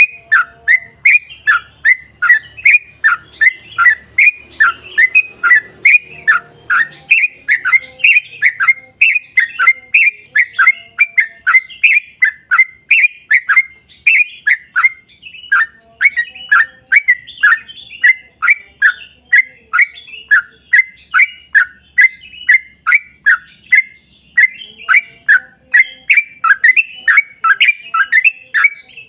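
Yellow-vented bulbul (trucukan) singing a long unbroken 'ropel' run of short, loud, falling chirps, several a second.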